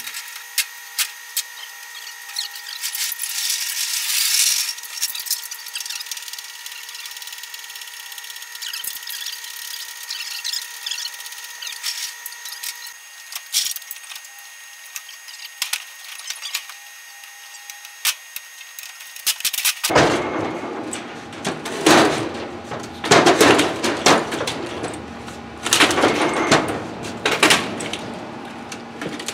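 Hand tools working on metal while a brake master cylinder is bolted on: irregular clinks, scrapes and clatter of wrenches and parts. A steady high whine runs under the first part, and the clatter grows louder and fuller after about 20 seconds.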